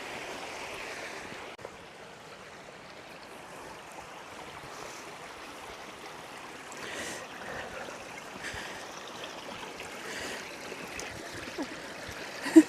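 Steady rush of flowing river water over the rapids, a little quieter from about a second and a half in.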